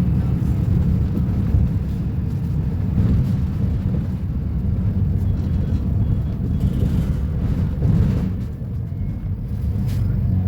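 Diesel engine of a Volvo B250RLE bus running with a steady low rumble, easing off briefly about eight seconds in and then building again.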